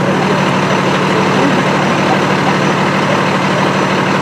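Large engine idling steadily: a constant low hum with an even hiss over it, without change.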